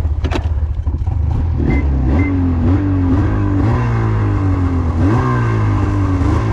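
A vehicle engine running hard with a deep steady hum, its pitch climbing and dropping back over and over in short surges of throttle.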